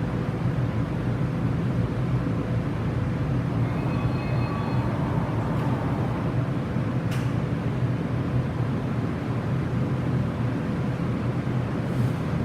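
Toei 6500 series electric train running, with a steady low rumble. A faint whine rises briefly about four seconds in, and a single sharp click comes about seven seconds in.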